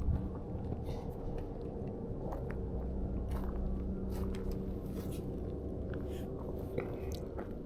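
Footsteps crunching irregularly on a park trail, with scattered clicks over a steady low hum. A short high chirp comes near the end.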